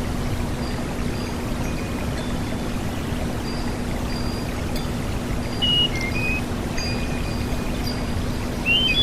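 Sulingan gunung (tledekan gunung) songbird whistling short clear high phrases, about six seconds in and again near the end, with fainter notes between. Steady rushing water and a low hum run under it.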